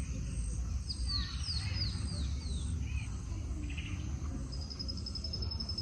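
Rural outdoor ambience. A bird gives a run of about five quick, high, descending notes about a second in, and a high steady insect trill starts a little after four seconds in, both over a low steady background rumble.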